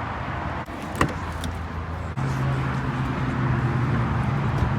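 A car engine running at a steady idle, a low even hum that gets louder about two seconds in, over the general noise of a busy car meet; a single sharp click about a second in.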